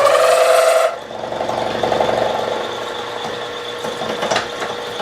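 Machine tool taking a facing cut in metal under flood coolant, with a loud, steady cutting whine. The cutting sound stops suddenly about a second in, leaving the machine running with a quieter steady whine and a few light knocks.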